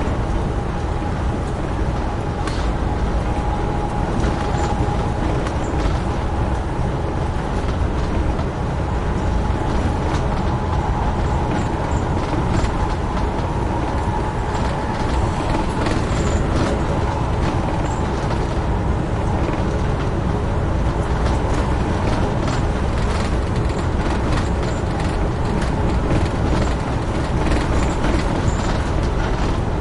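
Amtrak Northeast Regional passenger train running at speed: a steady rumble of wheels on rail with scattered clicks and rattles. A faint steady hum fades out about a third of the way through.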